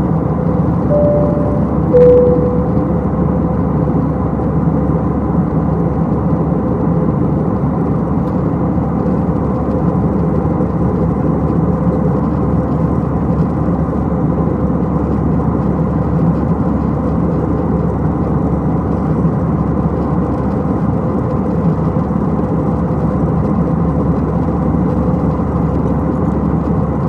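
Steady airliner cabin noise in flight, an even low rumble of engines and airflow. About a second in, a two-tone cabin chime sounds, a higher note then a lower one.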